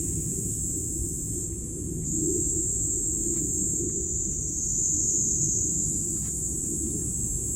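A steady high-pitched insect chorus, swelling slightly a couple of times, over a continuous low rumble.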